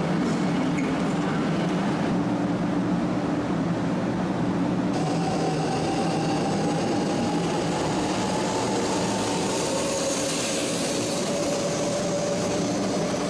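A 500 Series Shinkansen train at a station platform: a steady mechanical hum and rushing noise, with a thin whine in the second half that slowly falls in pitch.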